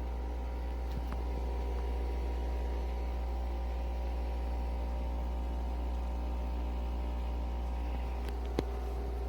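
Nespresso Vertuo Next coffee machine running through a brew: a steady mechanical hum from its capsule-spinning motor and pump. A single sharp click comes near the end.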